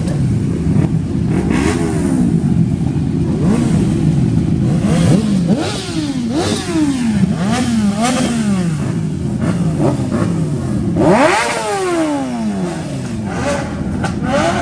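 Car engines revving at a meet: repeated blips of the throttle, the pitch climbing and falling several times, with a sharp high rev about eleven seconds in that falls away slowly, over a steady running engine rumble.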